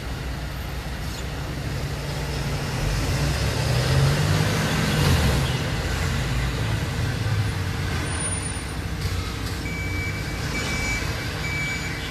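Heavy diesel truck engine running, its rumble swelling louder a few seconds in and then easing. A reversing alarm starts beeping repeatedly about ten seconds in.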